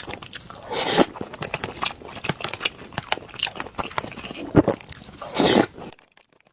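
Close-miked mouth sounds of someone chewing a mouthful of rice with egg: many small wet clicks and smacks, with two louder swells of noise about a second in and near the end, before the sound drops out to near silence.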